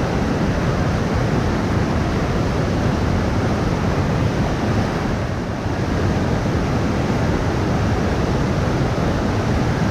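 Steady rushing noise of wind on the microphone and moving water, with no breaks.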